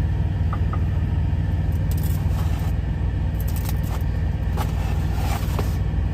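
Steady low rumble of an idling truck engine, with a few light clicks and scrapes about two to five seconds in.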